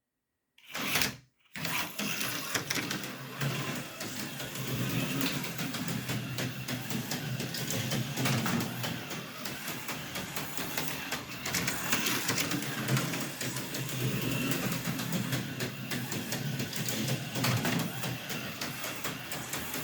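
HO-scale slot car, a Tomy AFX Jaguar on a Super Racing Turbo chassis, running laps: a steady small electric motor whir with fast clicking and rattling from the car on the track. It starts about a second and a half in.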